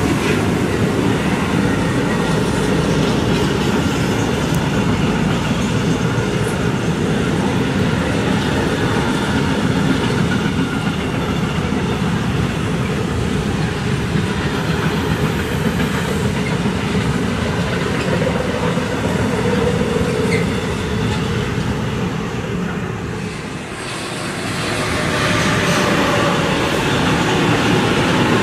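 Freight train wagons rolling past on the track: a steady rumble with wheel clatter. The sound dips briefly a little over twenty seconds in, then picks up again as a second freight train rolls by.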